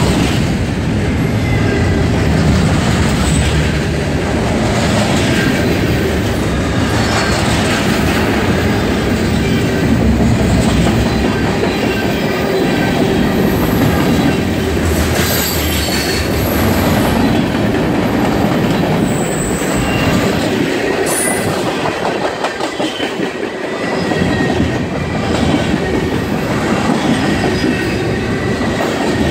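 Freight cars of a mixed manifest train passing close at speed: a steady loud rumble and clatter of steel wheels rolling over the rail, with a few brief high wheel squeals around the middle.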